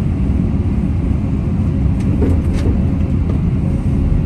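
Caterpillar 329 excavator's diesel engine running steadily during truck loading, a loud low drone, with a few faint clicks about halfway through.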